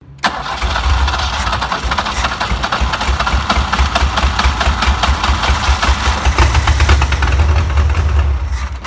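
BMW 2002's M10 four-cylinder engine running steadily with the air cleaner off and the carburetor open, a fast, even pulsing of firing strokes.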